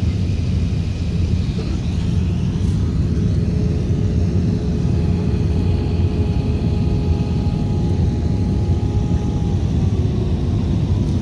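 Steady, loud rumble of an Airbus A380's engines and airflow heard inside the cabin on approach, with a faint steady hum that fades near the end.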